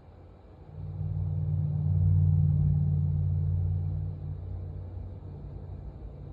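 Deep rumble of a motor vehicle's engine that swells about a second in, is loudest for a couple of seconds, then eases off and lingers at a lower level.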